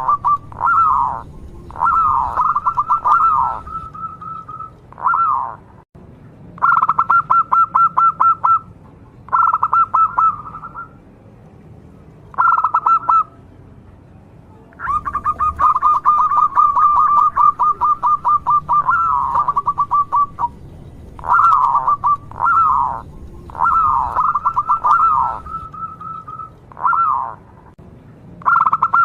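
Zebra dove (perkutut) singing: repeated phrases of rapid staccato cooing notes, one every second or two, with a longer run of notes from about 15 to 20 seconds in.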